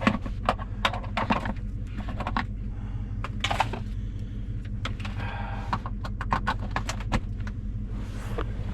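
Irregular clicks, rattles and rustling from hands working a corded fabric steering-wheel cover, over the steady low hum of the pickup truck idling.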